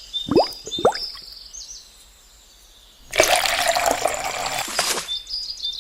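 Two quick falling tones near the start over high chirping, then a loud rush of splashing water for about two seconds that starts and stops abruptly.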